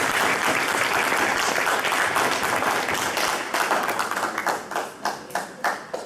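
Audience applauding after a speech: dense clapping that thins out to a few scattered claps over the last two seconds.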